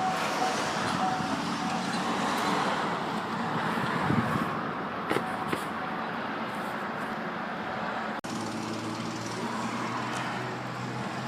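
Chevy Silverado's 5.3-litre V8 idling steadily, with a low hum under a general running noise.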